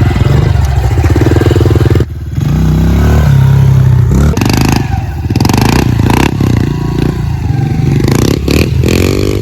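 Honda CRF pit bike's small single-cylinder four-stroke engine running and being revved, the throttle opened and closed in bursts. The sound drops off sharply about two seconds in, then picks back up with rising and falling revs.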